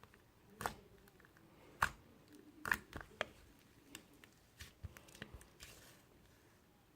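Slime being pressed and squeezed by hand, giving a handful of scattered sharp pops and crackles with quiet stretches between them.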